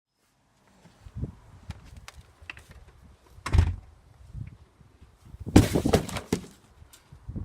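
Blows of a vacuum cleaner pole smashing a cardboard box: a few light knocks, a heavy hit about three and a half seconds in, then the loudest flurry of hits a couple of seconds later.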